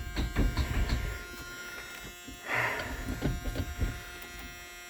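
A steady electric buzz from the Shay Thunderbird's seat warning buzzer, with scattered clicks and knocks and a short hiss about two and a half seconds in. The engine does not start on this cold-start try.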